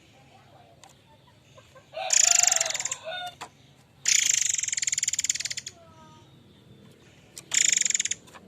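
Murai air mancur bird calling: three loud, harsh, buzzing calls, each a second or so long with a fast rasping flutter, the first starting about two seconds in and the last near the end, with faint short chirps between them.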